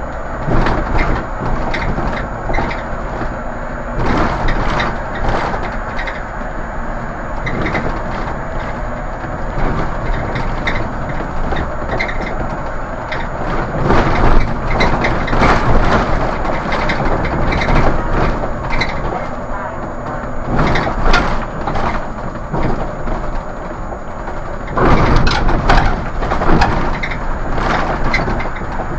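Vehicle engine and road noise, with a series of sharp knocks and bangs; the loudest patches come about 14 s in and again near the end.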